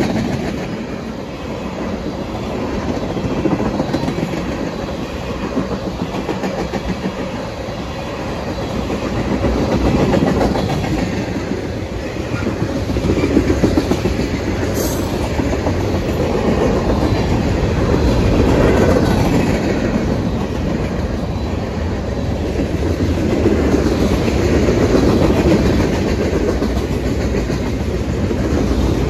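Freight train cars (tank cars, then boxcars and lumber flatcars) rolling past: a steady rumble and clatter of steel wheels on the rails, swelling and easing every few seconds.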